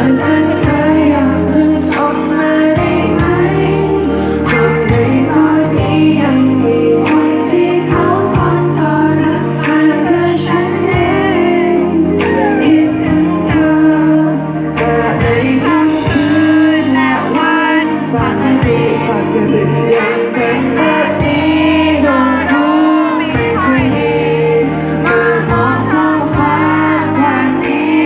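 A song: a singer's voice over instrumental accompaniment.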